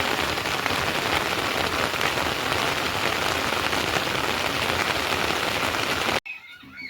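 Heavy rain falling, a steady dense hiss that cuts off suddenly near the end.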